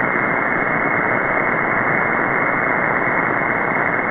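Shortwave receiver static: steady hiss of 20-metre band noise heard through an upper-sideband voice filter, which cuts it off above about 2 kHz, with no readable station between transmissions on the net.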